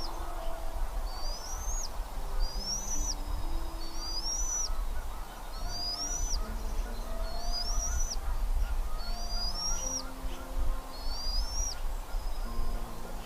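A bird calling a high whistle over and over, about once a second, each note rising and then dropping sharply at its end, with a pause near the end. Soft background music of long held low notes runs underneath.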